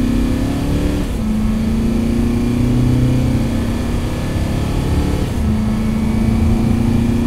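Mercedes-Benz GLB 200 d 4MATIC's 2.0-litre four-cylinder turbodiesel accelerating at full throttle. Its pitch climbs steadily and falls with an upshift about a second in and again about five seconds in, then climbs again.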